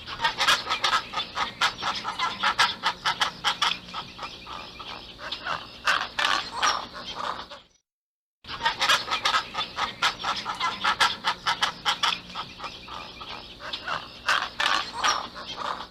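A flock of pelicans calling together in many rapid short calls. The same recording plays twice, with a brief silence just under eight seconds in.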